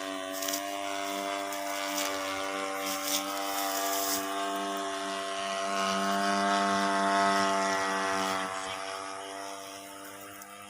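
Small grass-cutter engine of a homemade propeller aircraft running at a steady pitch, growing louder to a peak a little past the middle, then fading toward the end.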